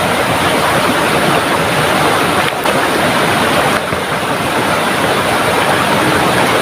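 Heavy tropical rain pouring down by a rushing river, a loud steady hiss of water that dips briefly twice.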